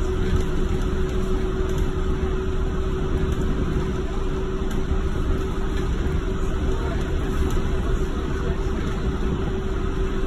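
Inside a driverless, rubber-tyred Yurikamome automated train running at speed: a steady low rumble of the ride with a steady hum over it.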